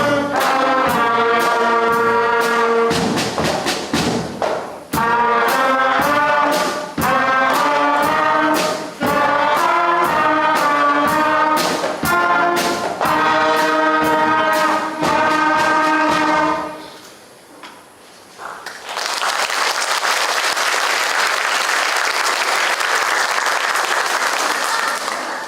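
A beginner school concert band of flutes and brass playing the last phrases of a piece on a steady beat, stopping about two-thirds of the way through; after a short pause the audience applauds.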